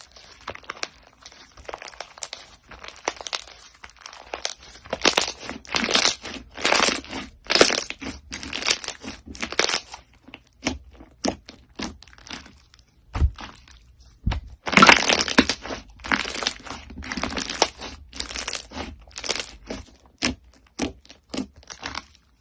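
Crunchy slime being squeezed and pressed, giving quick runs of crackling crunches. The crunches come densest in two stretches, about five seconds in and again about fifteen seconds in, with sparser single crackles between and near the end.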